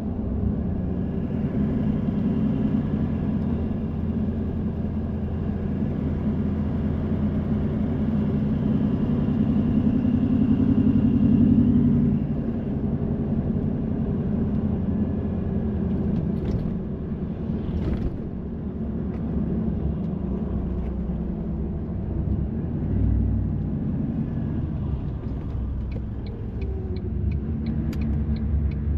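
Car driving, heard from inside: a steady low engine and road rumble that swells for a few seconds then eases back. Near the end comes a regular ticking, about two ticks a second.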